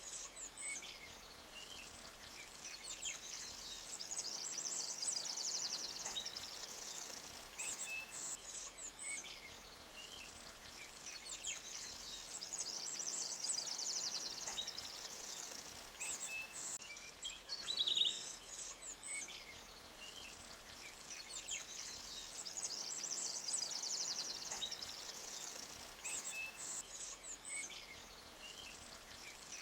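Forest ambience: small birds giving short chirps over a soft high hiss that swells and fades, the pattern repeating about every ten seconds.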